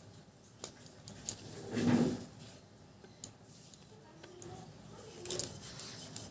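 Roti dough being rolled out with a rolling pin: scattered light knocks and clicks, with a short louder rumble about two seconds in.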